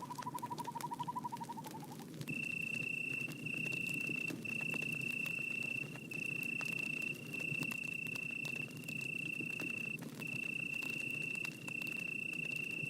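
Campfire crackling, with scattered sharp pops over a low, steady rumble. Over it, a fast trilling call sounds for the first two seconds and drops slightly in pitch as it ends. Then a high, steady, tone-like call repeats in long stretches a second or more each, with brief breaks between.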